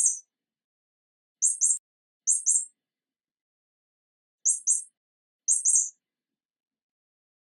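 Short, high-pitched chirping squeaks repeated with dead silence between: one near the start, then four quick pairs, each pair the same.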